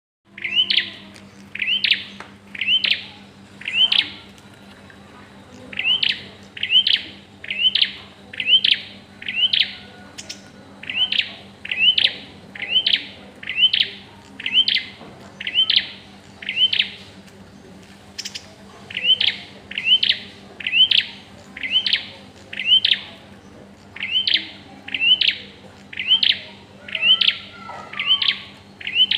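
Prenjak (prinia) calling: a sharp chirp repeated about two times a second in runs of four to eight, with pauses of a second or two between runs, over a faint steady hum.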